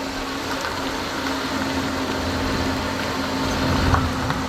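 A motor running steadily: a constant hum over a broad rumbling noise, like a vehicle engine heard on the move.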